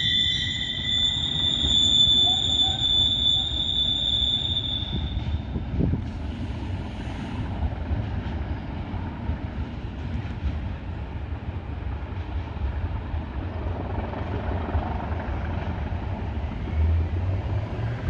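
Locomotive-hauled train pulling away around a curve: high-pitched wheel squeal fades out over the first few seconds, leaving a steady low rumble of the train receding.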